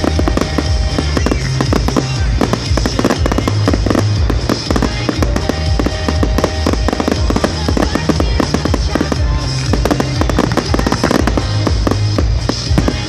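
Fireworks display: rapid, continuous bangs and crackles over loud music with a heavy bass beat.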